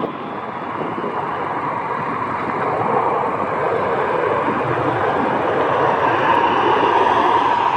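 Jet airliner's engines, a steady rushing noise that slowly grows louder as the aircraft comes closer.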